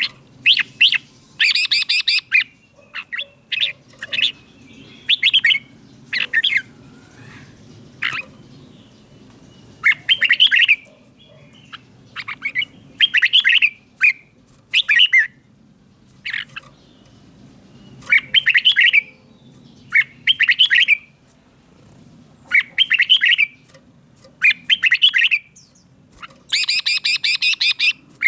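Red-whiskered bulbul singing short, rich warbled phrases, one every second or two, a couple of them harsher and buzzier.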